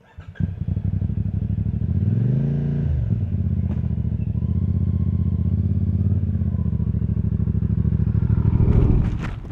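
CFMoto 450MT's 449 cc parallel-twin engine starting up, blipped once about two seconds in, then running at low steady revs. It goes quiet near the end.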